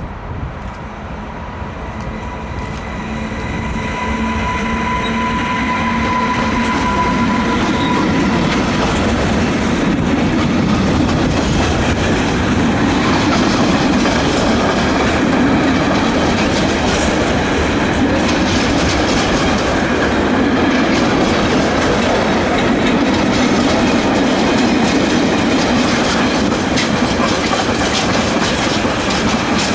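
Mixed freight train approaching and passing, growing louder over the first several seconds with a few steady tones, then a long steady run of freight wagons with wheels clicking over the rail joints.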